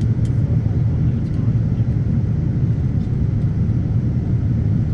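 Steady low rumble of cabin noise inside a Boeing 787-9 Dreamliner in flight: engine and airflow noise heard from a passenger seat.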